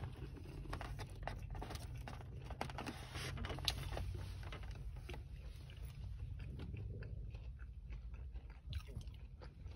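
Close-up eating sounds: chewing with many small wet clicks and crackles, while a plastic fork stirs and scoops coleslaw in a small plastic cup. A steady low hum runs underneath.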